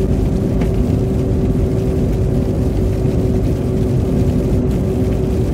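Steady road noise heard inside a moving car's cabin: tyres running on a slushy winter road under a low, even rumble, with a steady hum.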